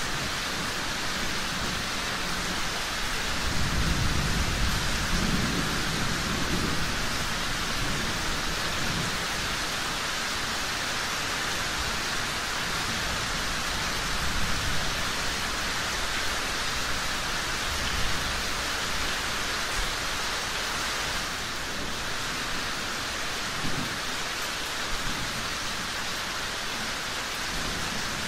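Steady heavy rain, with a low rumble of thunder rolling in a few seconds in and fading by about seven seconds, a fainter swell later, and a couple of short sharp pops near the end.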